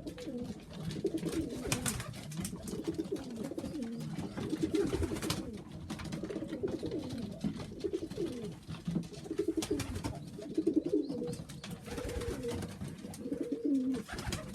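Several domestic pigeons cooing at once inside a loft, overlapping low warbling coos, with a few sharp clicks among them.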